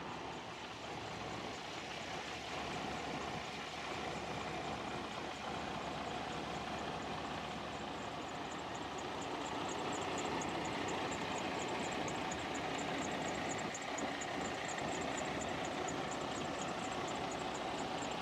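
Detroit DD15 inline-six diesel engine in a 2018 Freightliner Cascadia idling steadily, with a fast light ticking over the running sound that grows a little louder about halfway through.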